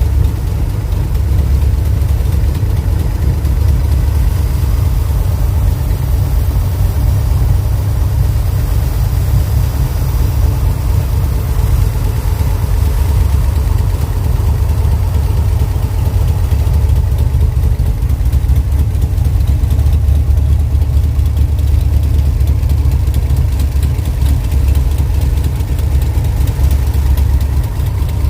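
Vehicle engine idling steadily, with no squeak to be heard: the squeak it had has been fixed.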